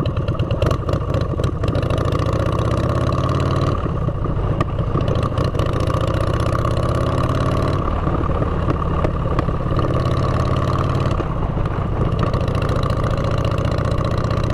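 Motorcycle engine running through aftermarket exhaust pipes while riding. Its pitch rises in the first few seconds, and the engine note changes about four, eight and eleven seconds in.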